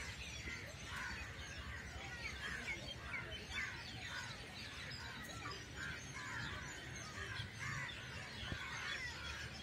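Birds chirping all around, a steady run of many short chirps rising and falling in pitch, over a low, steady background rumble.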